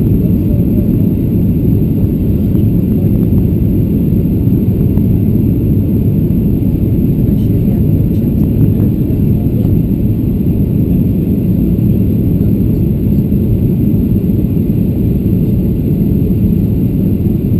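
Steady, loud cabin rumble of a Boeing 737-700 in flight on approach, the engines and airflow making a deep, even roar that barely changes.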